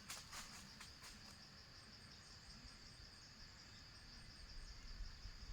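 Faint, steady, high-pitched insect trill, with a few sharp clicks in the first second or so.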